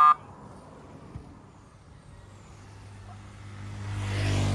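A vehicle horn gives one short beep, then a motor vehicle's engine grows louder over the last second or so as it comes close in street traffic.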